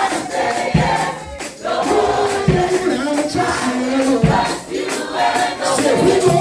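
Gospel praise and worship music: voices singing together over a band with a steady drum beat.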